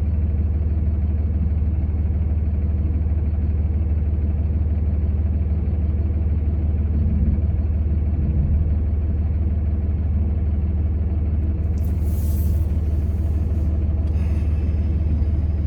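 Steady low engine drone of a vehicle, heard from inside the cab, with two short high hisses near the end.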